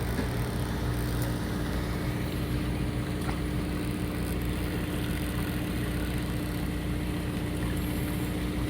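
Fishing boat's engine running steadily, a low drone with a constant steady hum tone over it.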